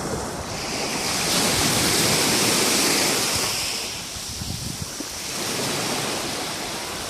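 Sea waves washing onto a sandy shore. One wave's wash swells about a second in and eases off after about four seconds, with wind buffeting the microphone underneath.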